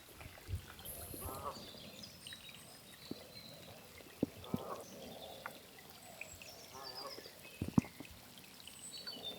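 Waterfowl calling about three times, with small birds chirping high overhead and a few sharp clicks.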